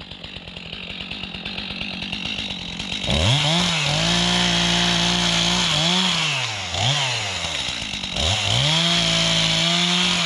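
Small motorbike engine coming closer, then revving hard several times: the pitch climbs, holds, drops and climbs again as the rider opens and closes the throttle.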